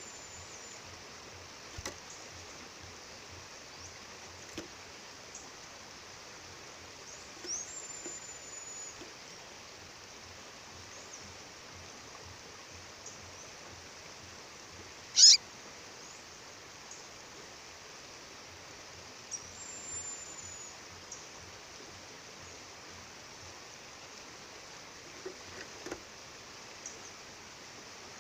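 A female bird calling from time to time: a few thin, high, short whistled calls, and one much louder, sharp downward-sweeping chirp about halfway through, over the steady rush of a waterfall.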